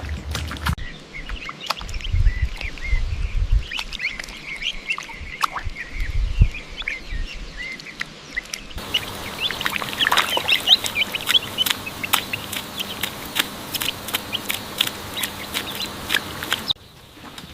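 Ducks calling: many short high-pitched calls over low rumbling thumps. After a cut about nine seconds in, the calls come faster and busier, mixed with clicks.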